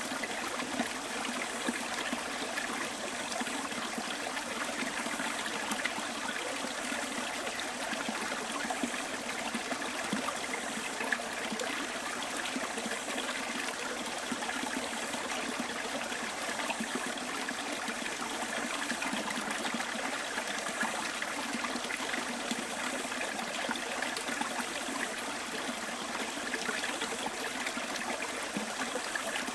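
Small bush stream trickling and burbling over stones, a steady rush of running water.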